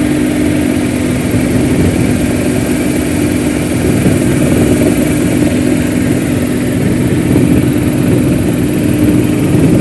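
Mil Mi-8 helicopter's twin turboshaft engines and rotor running steadily: a loud, continuous drone with a steady low hum and a thin high whine.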